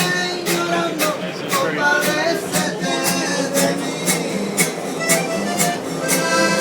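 Live Latin American busking music: an acoustic guitar strummed in a steady rhythm, about two strums a second, under sustained melody notes from an accordion.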